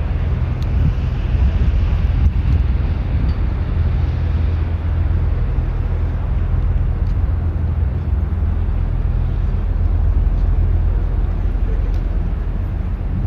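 Sightseeing ship's engines running with a steady low drone as the ship gets under way.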